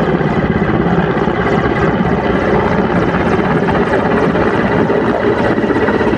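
Helicopter in flight, its rotor beating in a steady, rapid chop.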